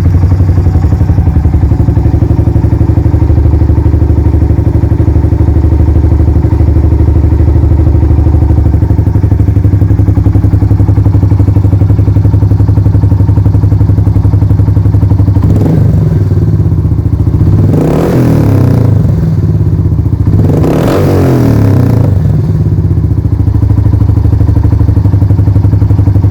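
Suzuki Savage's single-cylinder four-stroke engine idling loudly through a Supertrapp aftermarket exhaust, with three short blips of the throttle after the halfway point before it settles back to idle.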